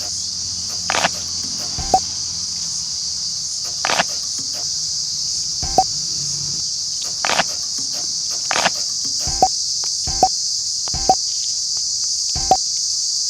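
Cicada calling: a loud, steady, high-pitched buzz that runs on without a break, with about ten short sharp clicks scattered through it.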